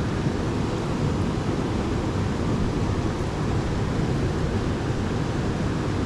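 Steady rushing of mountain-stream water, a dense even noise heaviest in the low range.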